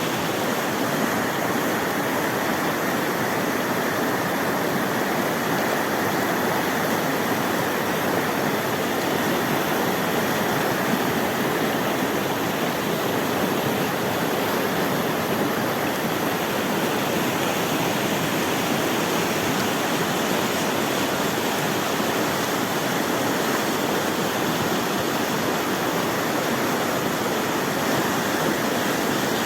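Mountain river rushing over rocks, a steady, unbroken roar of water.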